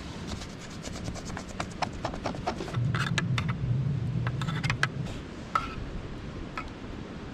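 Cookware being handled over a campfire: a quick run of light clicks and knocks, with a low hum underneath for about two seconds in the middle.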